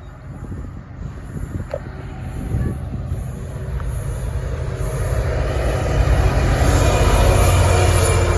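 Diesel train approaching and running through, growing steadily louder, with a low steady engine hum and rising wheel-on-rail noise.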